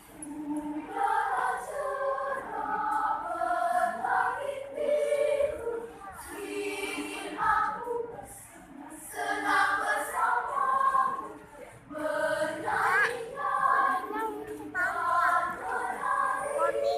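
A choir singing in phrases, with short breaks between them.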